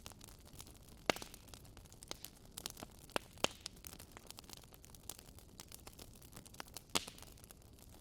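Wood fire crackling in a fireplace: a steady scatter of small sharp pops and snaps over a soft hiss, with two louder pops, about a second in and about seven seconds in.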